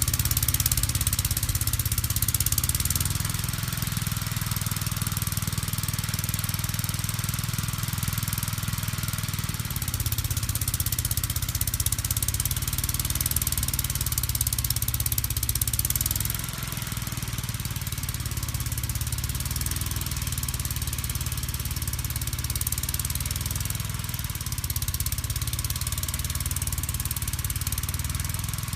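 1959 Gravely Model L walk-behind tractor's single-cylinder engine running with its snow blower attachment, its note shifting a few times as the load changes, with a steady high hiss over it.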